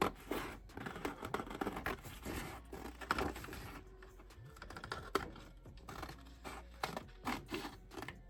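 Scissors snipping through paper and cardstock, cutting out shapes in a run of short, irregular snips.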